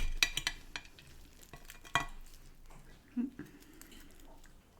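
Crisp fried fish batter crackling as the fish is broken apart, with several sharp clicks in the first second and another about two seconds in.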